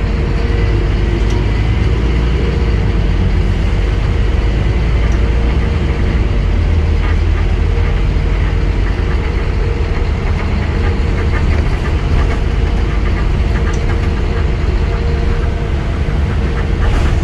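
Scania N230UD Enviro 400 double-decker bus's five-cylinder diesel engine running, a steady low drone with a constant whine above it. A few short rattles or clicks come near the end.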